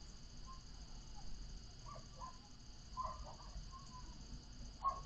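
A few faint, short animal calls in the distance, spaced about a second apart, over a low, steady background of outdoor noise.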